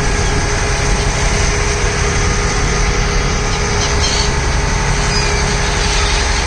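Ferry boat's engine running steadily, a constant low drone with an even hum above it.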